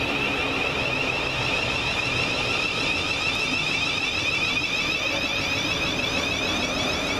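Electric multiple-unit train running through the station, a steady rumble with a constant high-pitched hiss and whine over it.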